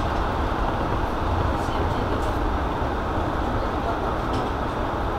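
Steady running noise of a JR East E233 series electric train heard from on board: an even rumble of wheels on rail and traction equipment, with a few faint ticks.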